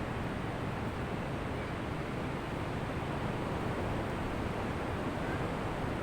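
Ocean surf making a steady, even wash, with no single wave break standing out.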